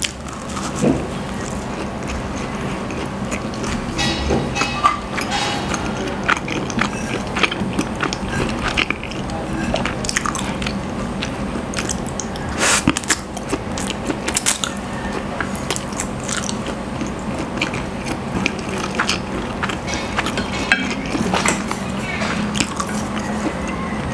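Close-miked eating: bites and chewing of soft pandesal bread rolls and mouthfuls of Lucky Me pancit canton instant noodles, with many short smacking peaks. Soft background music plays underneath.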